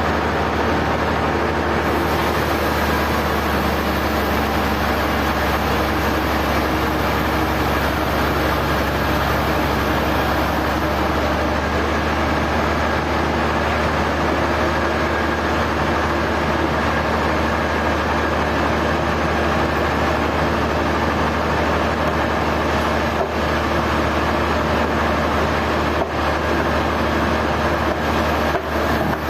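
Sawmill machinery running steadily: a constant low engine-like hum with a dense mechanical noise over it, dipping briefly a few times near the end.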